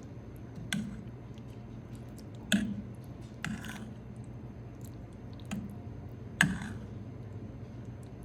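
A spoon clinking and knocking against dishes, about five separate light strikes a second or so apart, over a steady low hum.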